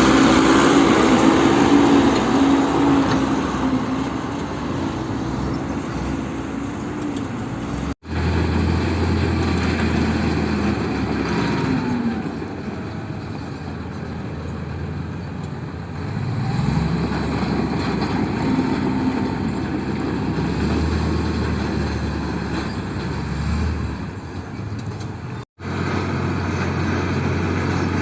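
Heavy diesel vehicle engine running, revving up a couple of times, in three stretches split by sudden cuts.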